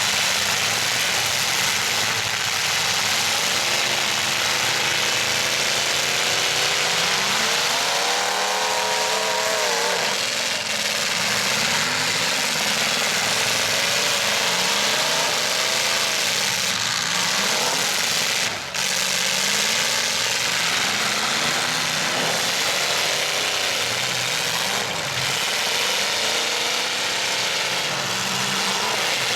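Several demolition-derby stock trucks' engines running and revving at once, their pitch rising and falling as the drivers work the throttles, over a loud, constant roar of engine noise.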